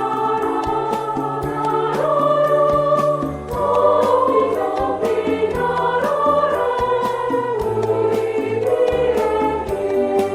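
Women's choir singing a children's song in harmony over a steady rhythmic accompaniment with a bass line.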